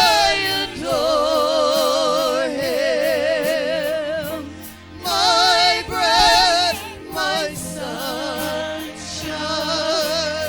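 Gospel worship singing: long held notes with wide, wavering vibrato that break off and start again, over a steady beat of sharp taps.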